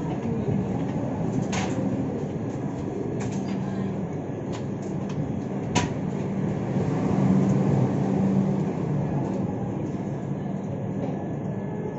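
Tamil Nadu Express LHB coach running along the track: a steady rumble of wheels on rail with scattered sharp clicks and knocks, the loudest about six seconds in.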